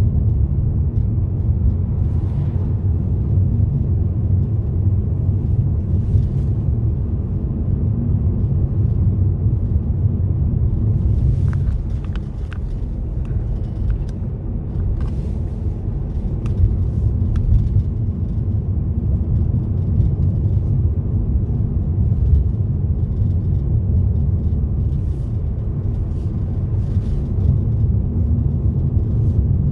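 A car driving along a road: a steady low rumble of engine and road noise, with a few faint clicks around the middle.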